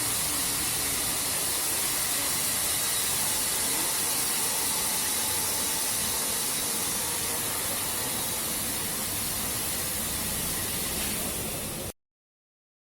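High-pressure water jets of a Leisuwash 360 touchless car wash spraying with a steady hiss. It cuts off suddenly near the end.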